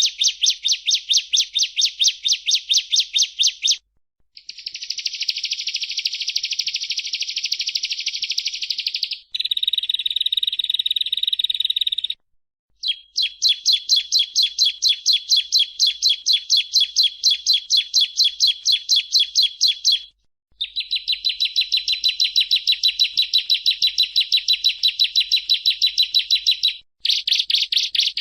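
Bar-winged prinia (ciblek) singing: long runs of fast, high-pitched repeated chirps, each run lasting several seconds, separated by short pauses. Near the middle there is one steadier, more even trill.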